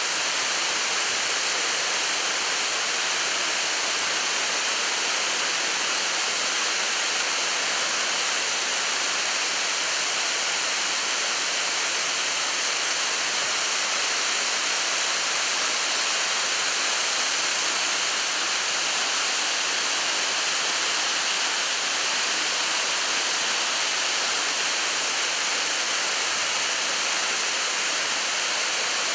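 The Makutaki waterfall at Tsuchiyu, a large waterfall, with its falling water making a steady, even rush that does not change.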